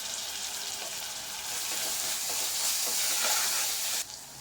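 Chopped tomatoes frying in hot oil with onions and ginger-garlic paste in a pressure cooker pan, a steady sizzle. It grows louder partway through and drops off abruptly about four seconds in.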